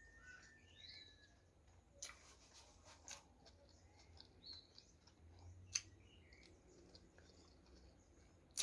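Near silence with a few faint sharp clicks and smacks of eating, the loudest about six seconds in, and faint bird chirps in the background.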